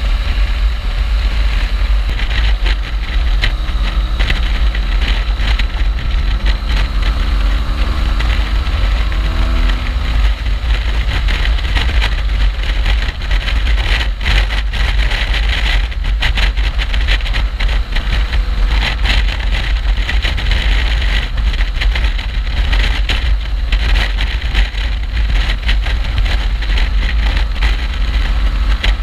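Motorcycle on the move: heavy wind buffeting on the microphone over a BMW R1200GS boxer-twin engine, which rises steadily in pitch as it accelerates from about four to ten seconds in.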